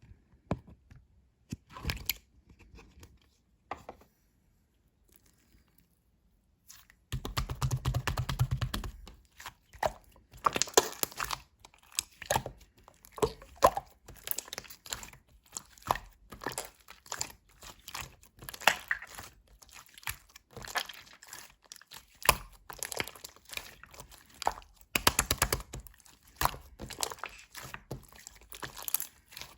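Hands squeezing, stretching and folding slime made with clay, giving a dense run of small crackles, pops and squelches. A few scattered clicks come first, and the crackling starts in earnest about seven seconds in.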